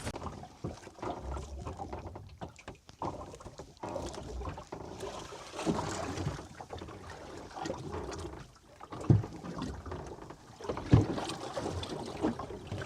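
Small fishing boat on the open sea: water slapping and lapping against the hull, with a few thumps, the loudest about 9 and 11 seconds in.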